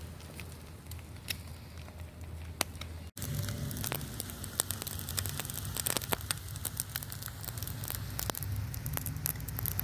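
Open campfire crackling and popping, sparse at first. After a brief dropout about three seconds in, the crackling is denser and louder.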